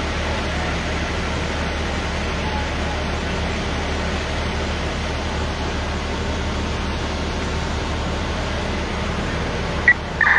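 Steady engine running at idle, a constant low hum under an even hiss. Two short high beeps near the end.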